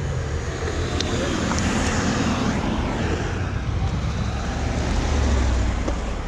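Motorcycle engine running steadily, with traffic noise on the road; the sound swells a little louder about five seconds in.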